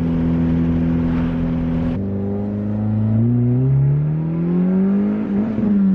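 Turbocharged Honda D15B inline-four engine under acceleration. It holds a steady note, then climbs in pitch for a couple of seconds and drops back near the end. It is building almost no boost, only about 2 psi, because its blow-off valve has come off.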